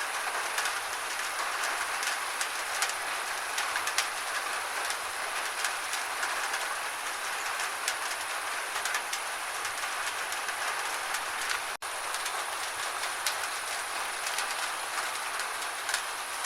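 Steady gentle rain, an even hiss with many small drops ticking sharply through it. The sound cuts out for an instant about twelve seconds in.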